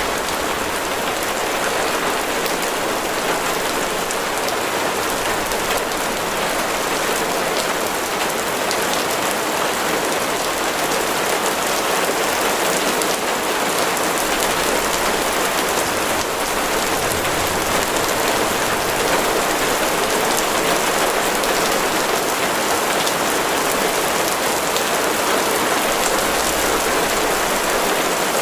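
Rain falling steadily: a dense, even hiss of countless drops.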